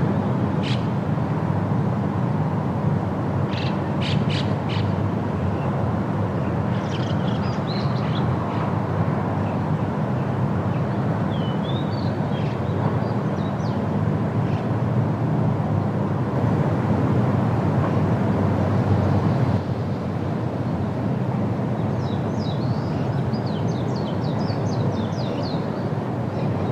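Steady wind through a forest, a dense rushing noise with a low rumble, with small birds chirping on and off: a few short calls about four seconds in, more around eight and twelve seconds, and a quick run of chirps near the end.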